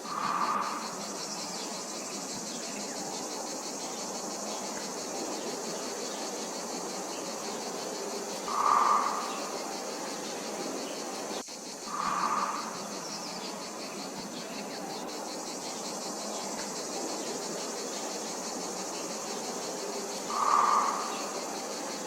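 Outdoor nature ambience of steady, high insect chirring, like crickets. Four times over the stretch, a short mid-pitched call about a second long rises above it, the loudest sound present.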